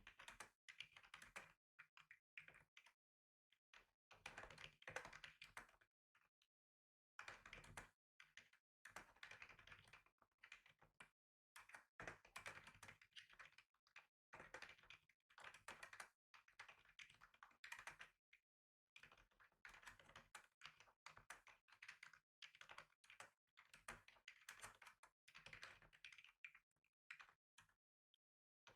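Typing on a computer keyboard: quick runs of key clicks broken by short pauses of a second or so.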